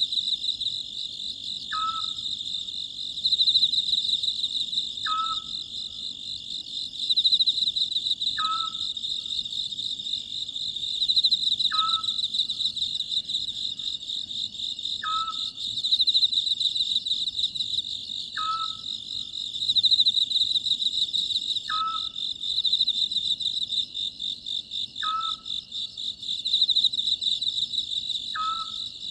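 Oriental scops owl giving its short, clipped call about every three seconds over a steady, pulsing chorus of crickets.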